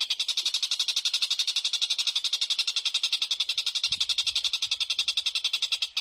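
A small bird's rapid, even chattering call, about ten notes a second, kept up without a break.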